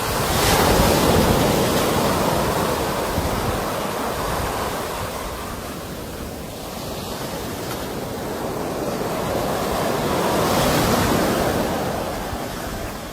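Sea waves breaking and washing in, in two slow surges: one builds and peaks about a second in and eases off, and a second swells up near the end of the clip and then fades.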